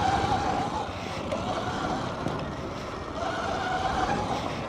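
Sur-Ron electric dirt bike's motor whining under throttle. Its pitch rises as the bike accelerates, about a second in and again after about three seconds, over rumbling wind and tyre noise.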